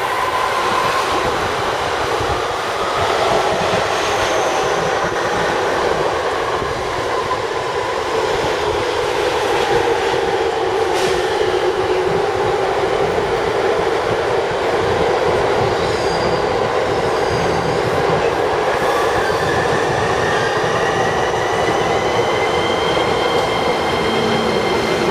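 Electric commuter train running along the platform close by: continuous wheel and rail noise with some clatter and squeal, and a faint whine that rises in pitch in the second half.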